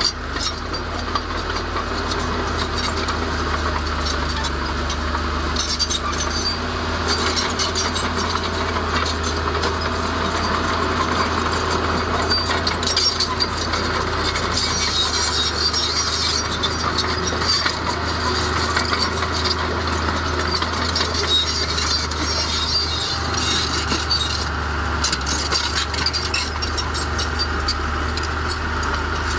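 Komatsu D31A crawler bulldozer working, its diesel engine running steadily under a continuous clatter and clank of steel tracks.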